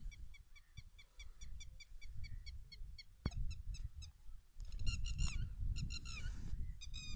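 Birds calling: a steady run of short high chirps, about four a second, with louder bursts of falling notes from about five seconds in. A single sharp click about three seconds in, over a low rumble.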